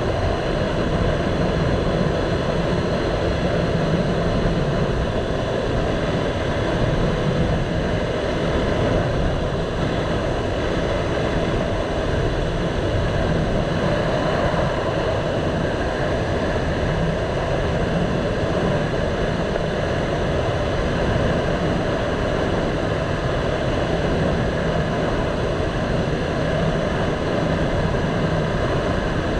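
Motorcycle engine running at a steady riding speed, heavily mixed with wind and road noise.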